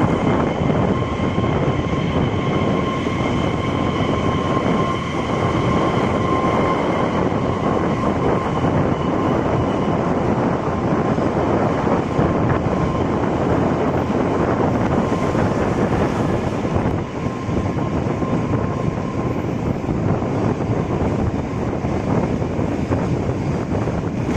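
Pertamina fuel train of rail tank wagons rolling past, a loud, steady rumble of wheels on the rails. A thin high squeal rides over it for the first several seconds and again briefly about two-thirds of the way through.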